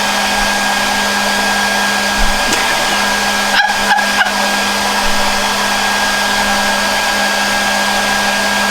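Hair dryer blowing into an inflated soft bonnet hood attachment through its hose: a steady rush of air with a low hum and a faint high whine.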